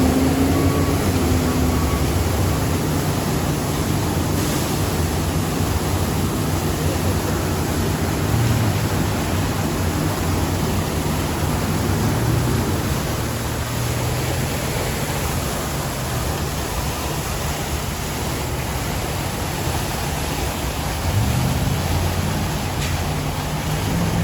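Steady rushing noise with the low hum of vehicle engines running underneath.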